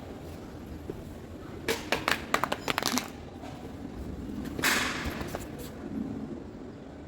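A quick, uneven run of sharp clicks and clattering knocks lasting a little over a second, like a smartphone hitting and bouncing on a hard floor, followed a couple of seconds later by a brief scraping hiss.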